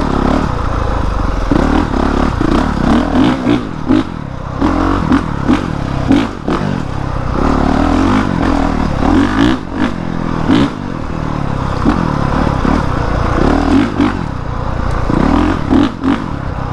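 Honda CRF450R's single-cylinder four-stroke engine revving up and down as the throttle is worked, with scattered knocks and clatter.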